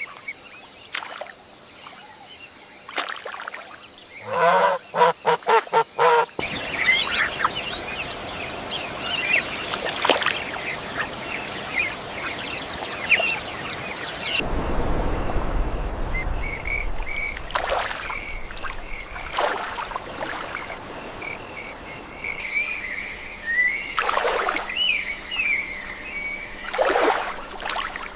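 Bird calls and chirps over a steady background, in several segments that change abruptly. About four seconds in there is a loud run of about seven rapid calls. From about fourteen seconds a low rumble sits under the calls.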